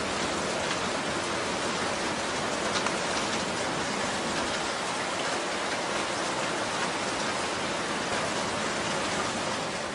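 Heavy rain falling steadily, a dense even hiss, fading out at the very end.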